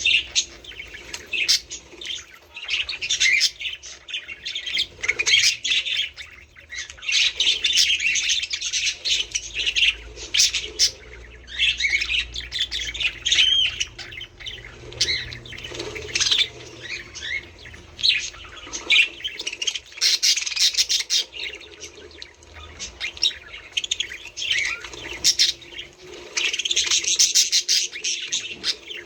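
A flock of budgerigars chattering, with dense runs of quick chirps, warbles and squawks that swell and fade every few seconds.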